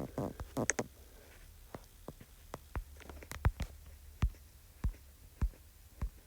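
Harbor Breeze Lakeside II ceiling fan running on high: a faint low steady hum with a series of short sharp clicks, roughly every half second.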